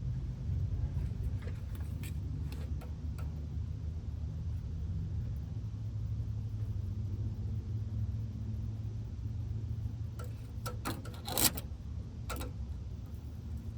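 Hand tools clicking and knocking against a truck's metal rear brake line and its fitting, scattered at first, then a quick run of sharp metallic clicks about ten seconds in, the loudest just past eleven seconds. Under it runs a steady low rumble.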